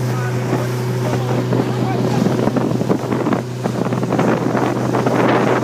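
Pontoon boat's outboard motor running with a steady low drone, with wind buffeting the microphone, heavier from about two seconds in.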